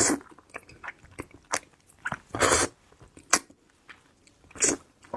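Close-miked eating of crab: sharp cracks and crunches of shell being bitten, between quieter wet chewing, at irregular intervals.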